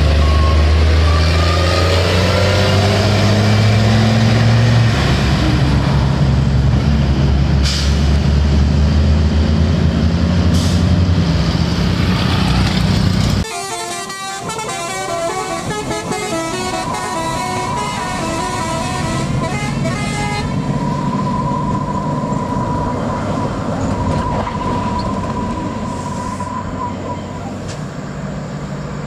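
Heavy diesel truck engine labouring under load, its low note shifting in steps. About 13 seconds in it stops abruptly, leaving quieter road noise with vehicle horns tooting and one long steady horn-like tone.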